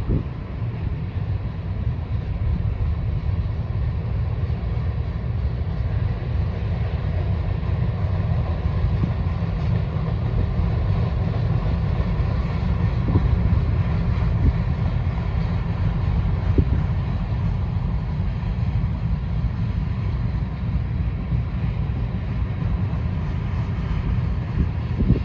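A grain train's freight cars rolling past steadily, with a heavy low rumble and wind buffeting the microphone. A few faint clicks stand out from the rumble.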